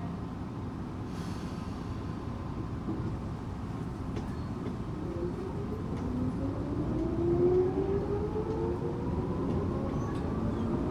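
Tokyu 8500 series commuter train with Toyo traction motors, heard from inside the car: a steady rumble of wheels on the rails. From about halfway a motor whine rises steadily in pitch and grows louder as the train picks up speed under power.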